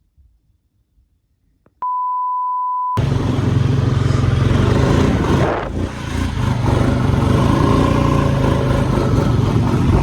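A steady, single-pitched beep lasting about a second, then loud rumbling noise over a steady low hum that cuts off abruptly at the end.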